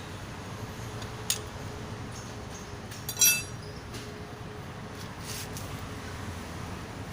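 A sharp tick about a second in, then a single ringing metallic clink a little after three seconds, like a tool or engine part knocking against metal, over a low steady background hum.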